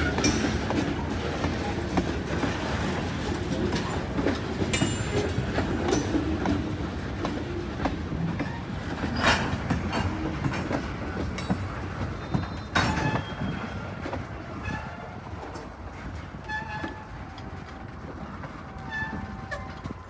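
Freight train rolling past, a continuous rumble of cars with sharp wheel clicks over the rail joints, slowly fading as it moves away.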